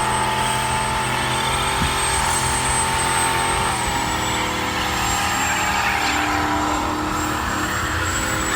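Street-driven drag race car engine running steadily at a loud idle, with a slight change in pitch a little under four seconds in.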